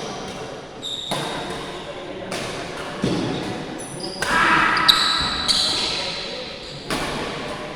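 Badminton rally: rackets striking the shuttlecock in sharp, echoing smacks about every second or so, with shoes squeaking on the court floor in between.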